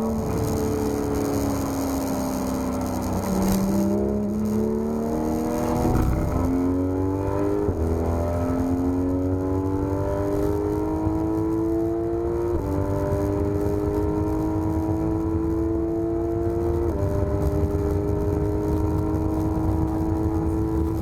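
Porsche 991 GT3 RS naturally aspirated flat-six under hard track driving: its pitch falls for the first few seconds as the car slows, then climbs steadily through the gears, with three upshifts, the pitch dropping sharply each time.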